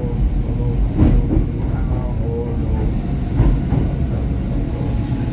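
SEPTA Market-Frankford Line subway train running between stations, heard from inside the car: a steady low rumble with a sharp clack about a second in.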